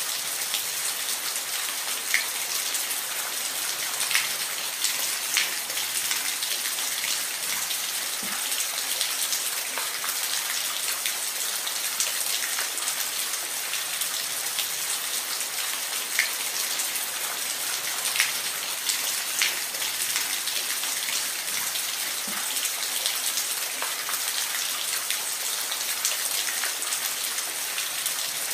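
Waterfall: a steady, even rush of falling water with scattered brief, sharper splashes.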